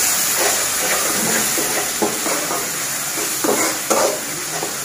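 Sliced onion, garlic and onion-garlic-ginger paste sizzling in hot oil in a kadai, with a spatula scraping and knocking against the pan several times as it is stirred.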